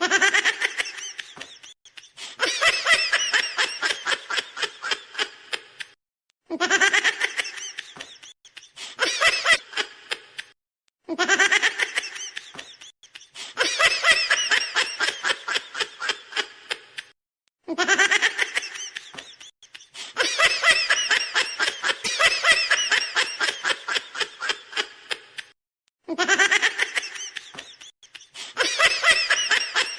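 High-pitched laughter in repeated bursts every few seconds. Each burst opens with a rising 'aah' and breaks into a rapid run of ha-ha pulses that fade out.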